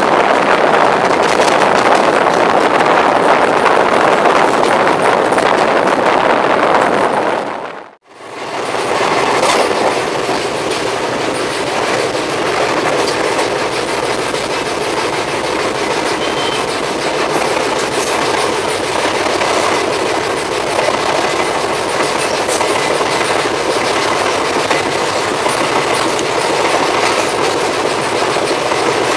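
Express passenger train running at speed, heard from inside a coach: steady rushing rail noise with clickety-clack of the wheels on the track. The sound drops out sharply about 8 s in, then the running noise resumes, steady and a little quieter, with a few short clicks.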